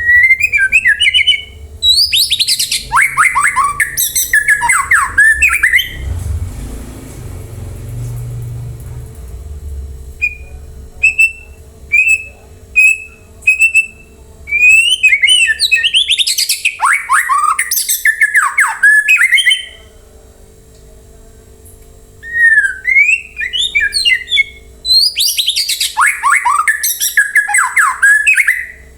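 White-rumped shama (murai batu) singing loud, rapid phrases of sweeping whistles and harsh notes, broken by short pauses. A run of five short, identical whistled notes comes about a third of the way in.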